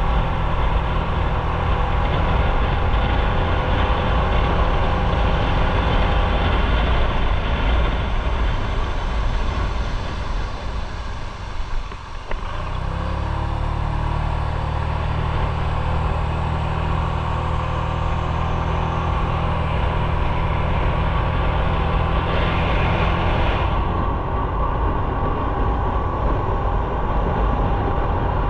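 Motorcycle engine running under way with steady road and wind noise. The engine note drops out briefly about twelve seconds in and then comes back steady.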